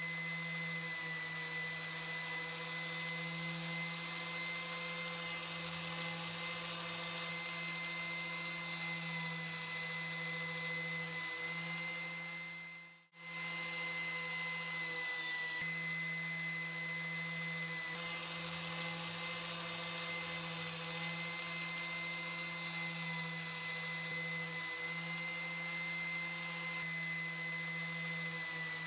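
Electric power tool motor running at a steady speed with a constant whine; it drops out briefly about thirteen seconds in and then runs on as before.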